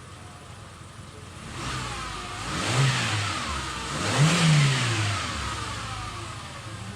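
Hyundai Accent engine idling, then revved twice, the pitch climbing and falling back each time before it settles to idle again.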